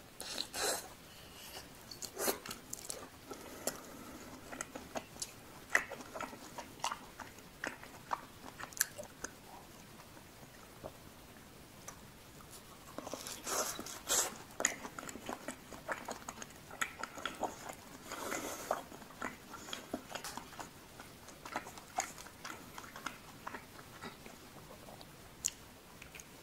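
Close-up chewing of deep-fried cheese balls with a stretchy melted-cheese filling: biting, wet mouth clicks and smacks in an uneven run of short bursts, busiest about halfway through.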